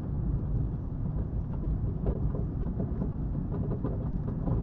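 A car driving along at speed: steady low rumble of road and wind noise, with a few faint ticks in the second half.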